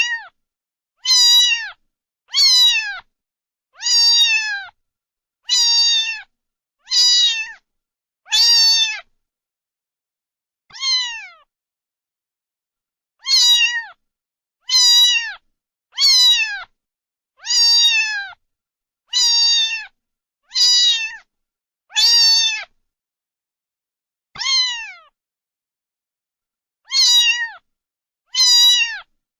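A cat meowing over and over, high-pitched calls about half a second long that drop in pitch at the end, repeated about every second and a half with a few longer pauses.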